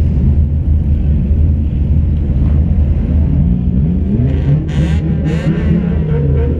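Demolition-derby car engine idling with a heavy, steady low rumble heard from inside the stripped cabin, with engine revs rising and falling over the second half. Two short bursts of hiss come about two-thirds of the way in.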